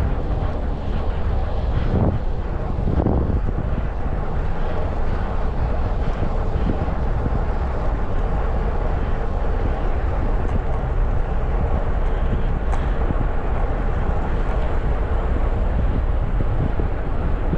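Steady wind rush on an action camera's microphone while cycling, mixed with road and passing-traffic noise.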